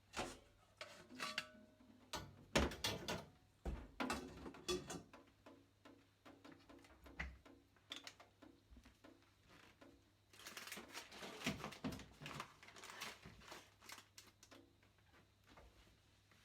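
A garlic clove being grated on a grater: close-up handling clicks and knocks, then runs of quick, even scraping strokes, densest a little past the middle.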